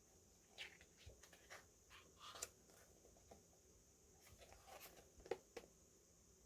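Soft handling noises: scattered light taps, clicks and rustles of packaging and paper goods being handled. The sharpest taps come about two and a half and five and a half seconds in, over a faint steady hiss.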